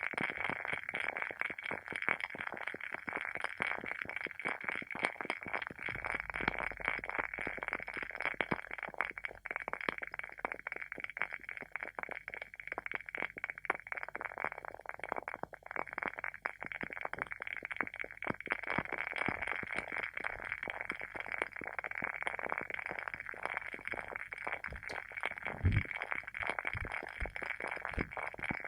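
WoodWick candle's wooden wick burning with steady, irregular crackling and popping like a small bonfire. A single low thump comes near the end.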